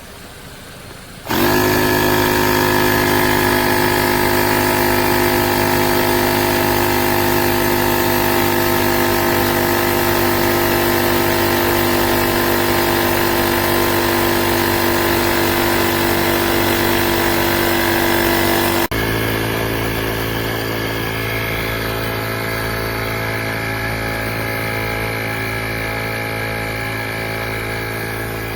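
Portable 12V tire inflator's compressor switching on about a second in and running steadily with a loud buzzing hum. About two-thirds of the way through its tone changes abruptly and it gets a little quieter, then it keeps running.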